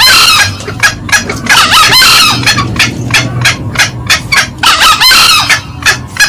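Green junglefowl, male and female, calling loudly: a steady run of short, sharp cackling notes about three a second, broken by three longer, harsher calls, one at the start, one about two seconds in and one about five seconds in.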